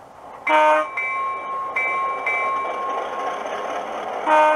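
Simulated diesel air horn from a Soundtraxx Econami DCC sound decoder, played through a small sugar cube speaker in an HO scale GP7, sounding two short blasts, one about half a second in and one near the end, with a steady thinner tone between them. The horn sounds weak.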